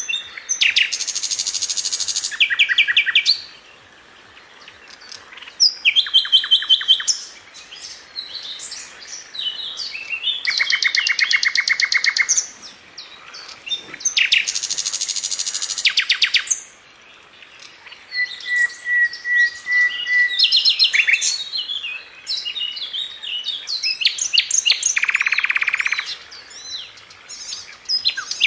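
Songbird singing a series of phrases, each a fast trill of repeated notes mixed with sharp chirps, with short pauses between phrases.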